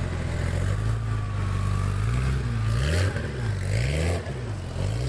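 A sports car's engine running at a steady low idle, then revved up and back down twice in quick succession from about halfway through.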